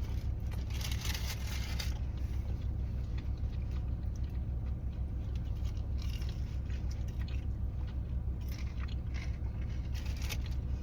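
Biting into and chewing a fried boudin ball, with crisp crunchy patches about a second in and again later, over a steady low engine hum.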